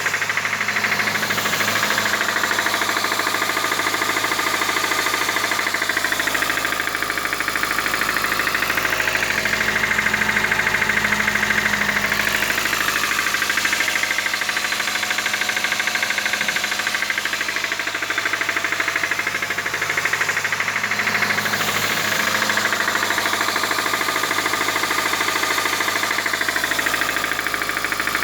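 Petrol engine running with a fast, steady mechanical knocking, the sign of a badly worn engine with knocking valves. Its tone shifts slightly every several seconds as the speed drifts.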